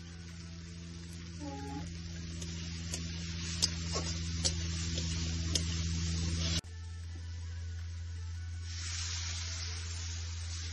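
Green peas and spices frying in a metal kadai over a wood fire: a steady sizzle with a few sharp clicks of a metal spatula against the pan, all over a steady low electrical hum. The sound breaks off abruptly about six and a half seconds in, and the sizzle grows louder near the end.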